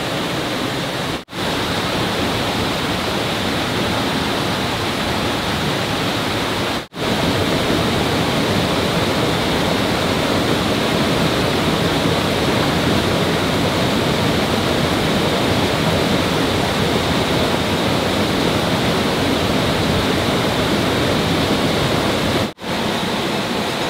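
Rushing water, as of a fast stream or small waterfall: a loud, steady hiss that cuts out briefly three times.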